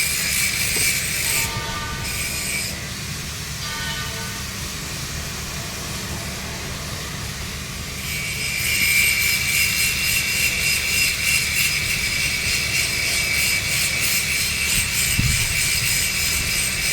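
Welding arc running on a 3-inch schedule 80 steel pipe joint: a steady hiss with a thin high whine, quieter for a few seconds early on and louder again from about halfway through.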